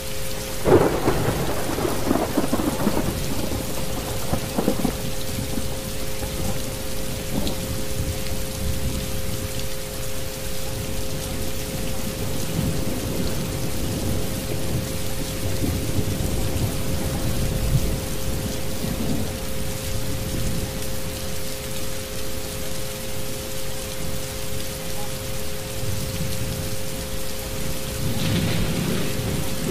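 Steady rain with rolling thunder: a loud roll about a second in that dies away over a few seconds, and a softer one near the end. Two steady tones from the soundscape's isochronic frequency track sound under the rain.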